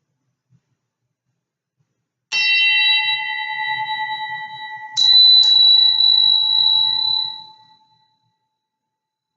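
A struck bell-like instrument rings with several clear tones. It is hit once about two seconds in, then twice more in quick succession about half a second apart, and the ringing fades out gradually.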